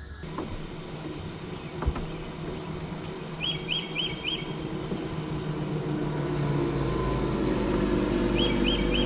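A motor runs with a steady low hum that grows gradually louder. A bird gives a quick four-note chirp twice, and there is a single click about two seconds in.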